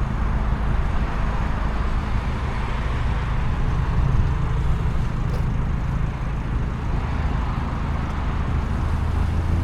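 Abarth 595 Competizione's turbocharged 1.4 T-Jet four-cylinder, fitted with a Record Monza exhaust, running steadily at low revs, settling into a steadier hum near the end.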